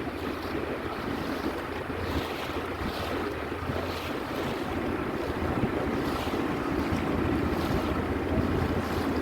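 Wind buffeting the microphone over the steady wash of the sea, with a constant low hum underneath.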